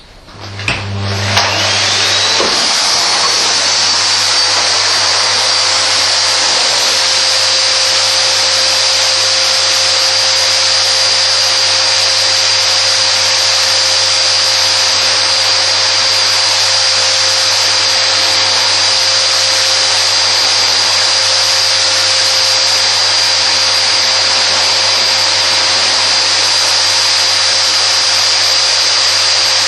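Vacuum cleaner switched on, its motor spinning up with a rising whine over the first couple of seconds. It then runs steadily with a high whine over rushing air.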